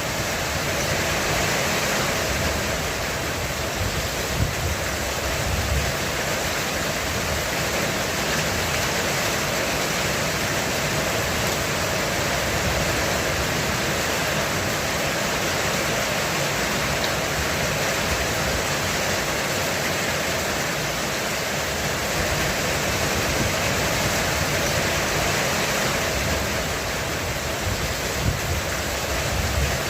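Heavy rain falling steadily on a roof, an even, dense hiss with no pause.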